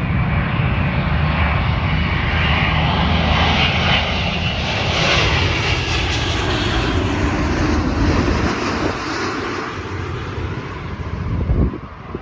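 Jet airliner passing low overhead on its landing approach: a loud engine roar that swells to a peak and then fades away. A brief gust of wind buffets the microphone near the end.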